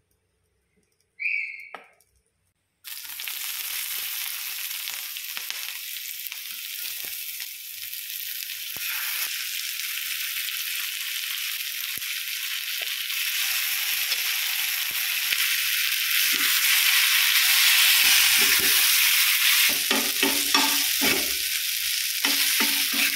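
Mutton with onions frying on a hot cast-iron tawa: a steady sizzle that starts suddenly about three seconds in and grows louder in the second half. Near the end a spoon scrapes and stirs it against the pan.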